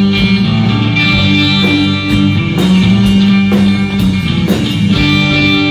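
A live band playing an instrumental passage between sung lines: guitar chords over bass and a drum kit keeping a steady beat.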